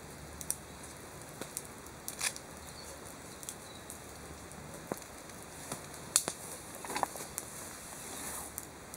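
Wood campfire burning, with scattered crackles and pops at irregular intervals over a faint background hiss.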